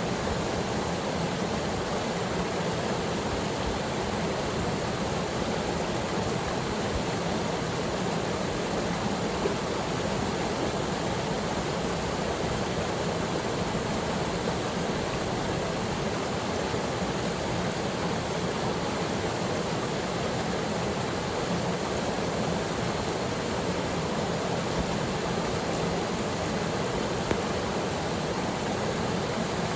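Waterfall pouring steadily into its pool, an even rushing of water with a couple of brief sharper ticks.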